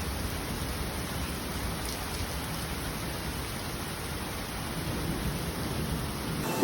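Steady heavy rain with a low rumble of thunder underneath.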